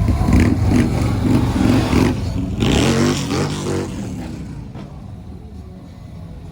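Car engine running and revving close by, then fading away about four seconds in.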